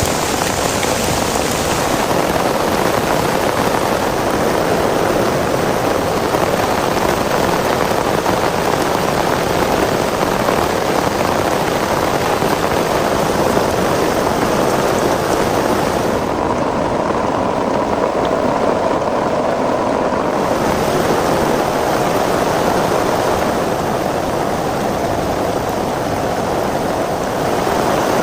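Heavy rain pouring steadily, a dense even hiss. Past the middle, the higher part of the sound drops away for a few seconds.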